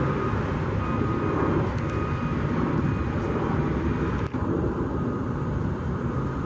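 Steady low rumble of vehicle noise, with a brief drop about four seconds in.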